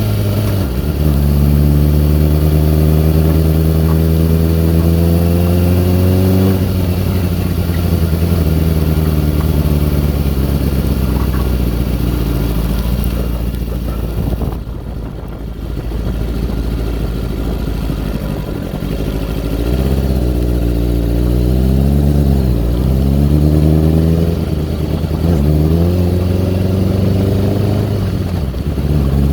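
2002 Kawasaki ZX-6R inline-four engine running unevenly. Its pitch holds steady for several seconds, then goes rough and unsteady; later it sags and recovers a few times before settling. The owner puts the odd sound down to the carbs or fuel, probably from the bike sitting unused.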